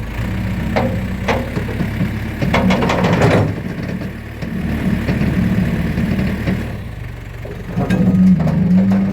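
Engine running steadily, with metallic clanks and knocks over it, a cluster of them about three seconds in and more near the end, where the engine grows louder.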